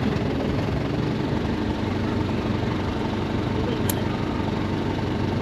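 An engine running steadily at an even speed, with a low hum.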